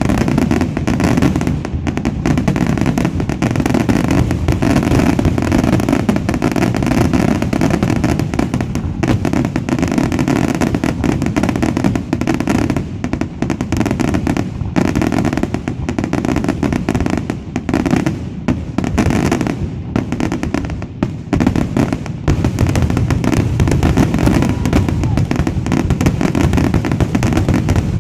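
Aerial fireworks display: shells bursting one after another in a rapid, nearly continuous barrage of booms and crackles.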